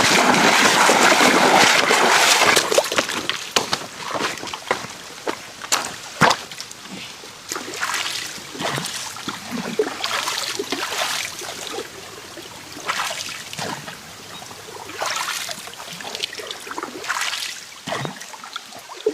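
Water splashing and sloshing. There is heavy, continuous splashing for the first few seconds, then a quieter run of separate small splashes and drips.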